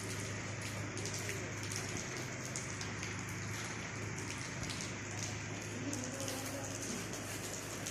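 Rain falling steadily: a dense, even patter of drops with sharper individual drips ticking through it.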